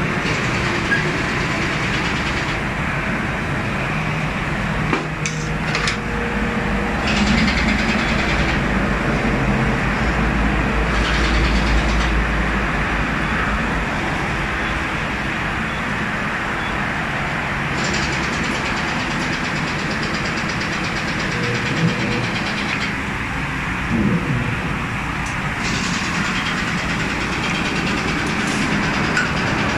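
Steady motor-vehicle engine noise with a low rumble, broken by a few short knocks.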